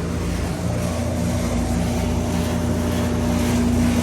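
Lennox central air-conditioner condensing unit running steadily shortly after kicking on: a steady compressor hum under the whoosh of the condenser fan.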